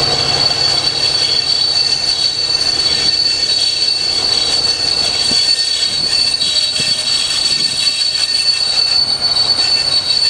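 Double-deck passenger coaches rolling past on a curve, wheels squealing in a steady high whine over the rumble and clatter of wheels on the rails. The rumble fades after about three seconds as the last coaches go by, while the squeal carries on.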